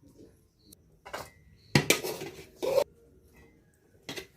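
Dishes and cutlery clattering: a handful of short, sharp clinks and scrapes, the loudest cluster about two seconds in.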